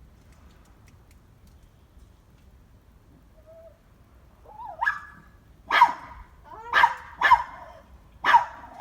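A small dog barking in sharp, high yaps. The first bark comes about five seconds in, then four more follow roughly a second apart.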